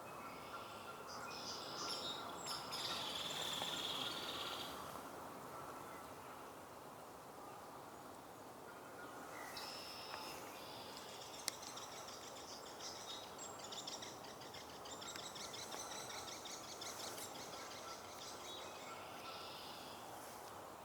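Woodland birds calling and singing, with a steady outdoor background hiss. A few high notes sound in the first seconds, and a longer stretch of rapid, repeated high notes starts at about the halfway point. A single sharp click falls about halfway through.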